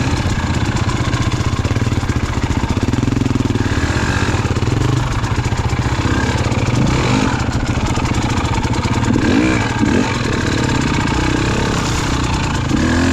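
KTM enduro dirt bike engine running under throttle on a trail, its revs rising and falling briefly a few times.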